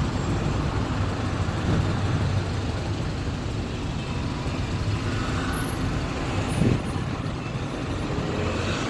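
Road traffic: a steady low vehicle engine rumble with road noise, swelling briefly about two-thirds of the way through.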